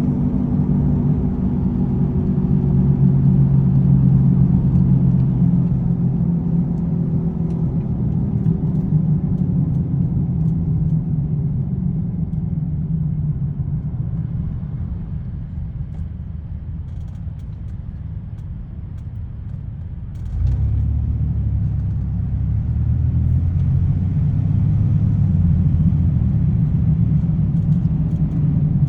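Motor vehicle engines and traffic on a freeway: a steady low engine rumble that slowly fades, then about two-thirds of the way in a louder, deeper engine comes in suddenly and keeps running.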